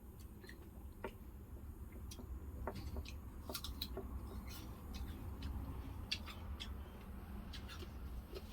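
Crunching of a crisp apple: irregular short crisp cracks and clicks, over a steady low hum.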